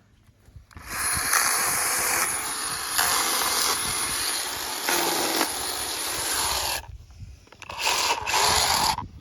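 Cordless 20V battery chainsaw running, with a high steady whine over the noise of the chain. It runs in one long burst of about six seconds, stops, then runs again briefly near the end.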